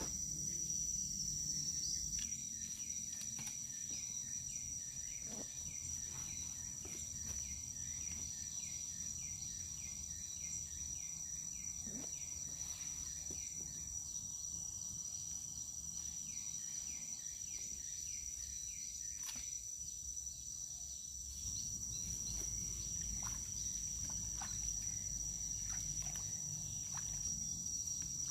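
Rural ambience: a steady, high-pitched insect drone runs throughout, while a bird repeats short calls over roughly the first half. Underneath is a low rumble that gets louder a little past two-thirds of the way in.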